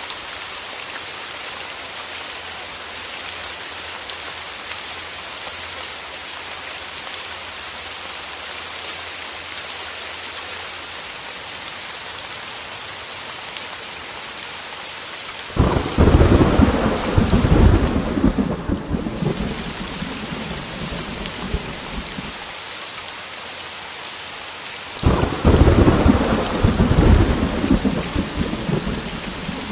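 Heavy rain falling steadily, with two rolls of thunder: the first breaks in suddenly about halfway through and rumbles for about seven seconds, the second starts a few seconds before the end.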